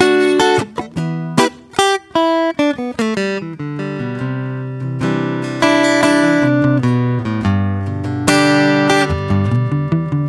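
Acoustic guitar played solo, slow improvised picking with chords struck and left to ring, and a few quick strummed chords.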